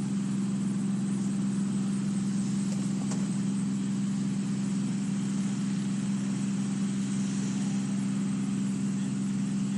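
A steady low mechanical hum that stays unchanged throughout.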